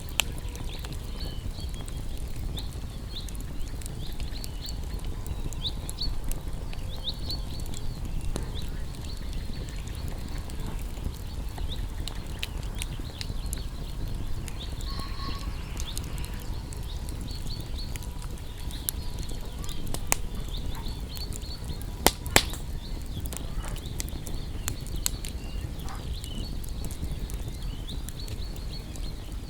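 Campfire of burning wood crackling steadily, with scattered sharp pops and two loud pops about two-thirds of the way through, over a low steady rumble. Short high animal chirps repeat throughout.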